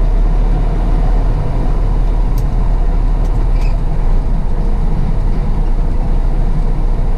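Truck's diesel engine running with a steady low rumble, with two faint ticks partway through.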